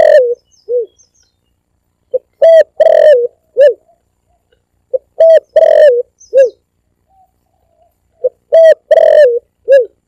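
Spotted dove (tekukur) cooing, played as a bird-lure recording. The same loud phrase of four or five short coo notes repeats about every three seconds: three full phrases, plus the tail of one right at the start.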